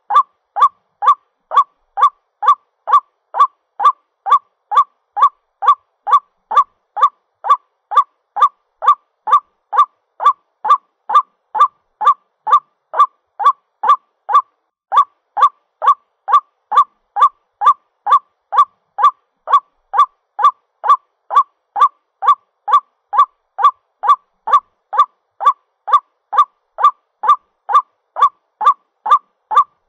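White-breasted waterhen calls: one short note near 1 kHz repeated evenly about twice a second, with no break. This is the bird's call to its mate, used as a lure call to attract waterhens.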